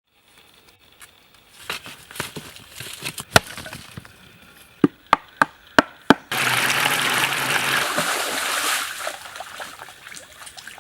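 A run of sharp knocks, five of them in quick succession about five seconds in, followed by a couple of seconds of loud rushing, splashing water that fades away.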